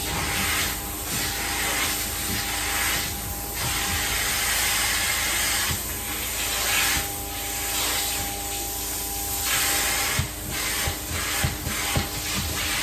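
Carpet-cleaning extraction wand spraying hot water and sucking it back up, a steady loud hiss over the whine of the vacuum. The hiss swells and fades with each stroke of the wand, and a few sharp clicks come near the end.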